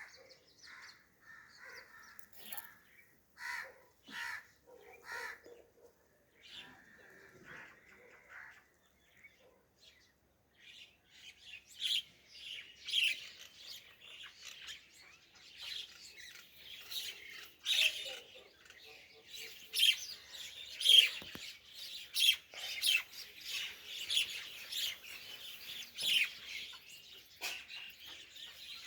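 Birds chirping: a few scattered calls at first, then from about ten seconds in a dense chorus of many overlapping high chirps.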